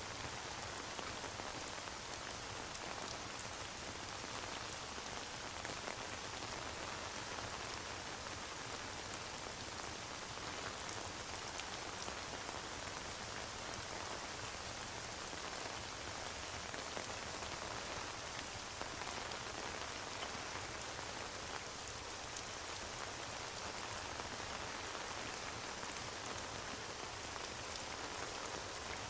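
Steady rain: an even hiss with a fine patter of drops.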